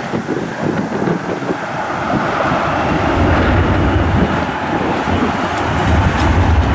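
Strong wind buffeting the microphone, mixed with the rushing noise of a jet aircraft, both growing louder about three seconds in.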